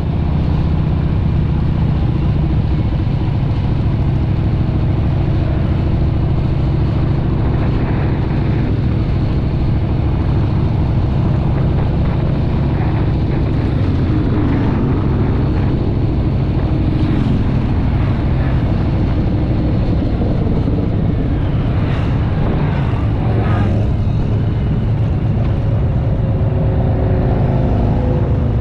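A motor vehicle engine running steadily with a low, continuous drone and road noise, as when driving along. A few faint brief higher sounds come in over it near the middle.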